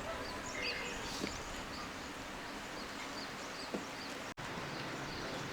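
Steady murmur of a river with small birds chirping over it. The sound drops out briefly about four seconds in.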